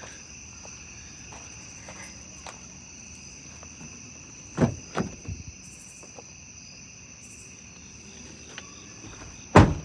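Crickets chirping steadily in the background, with a few short knocks about halfway through and one loud thump near the end.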